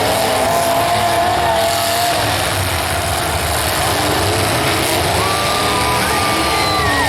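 Demolition derby car engines running and revving loudly over a constant rumble, with a high engine note held for about two seconds near the end before it drops.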